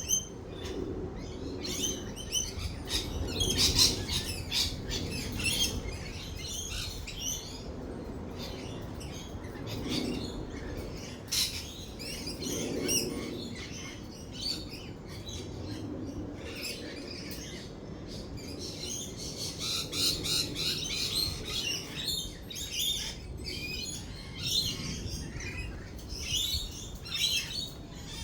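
A flock of lorikeets chattering, with many short, high chirps and squawks overlapping one another, over a continuous low rumble.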